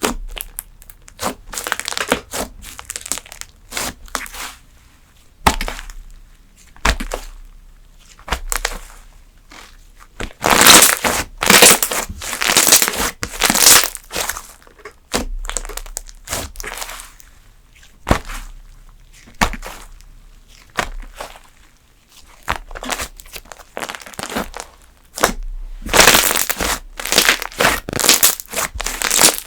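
Fluffy slime being squeezed and worked by hand, giving irregular bursts of crackling and crunchy popping with short pauses between them.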